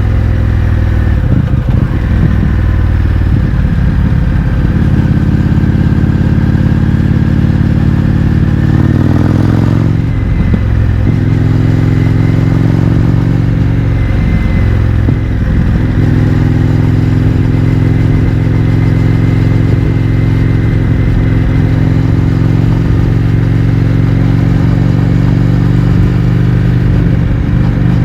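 Indian FTR 1200's V-twin engine running through an Akrapovič exhaust with the baffles removed, while the bike is under way. The engine pitch rises about nine seconds in, breaks briefly at a gear change, holds steady, then climbs slowly again near the end.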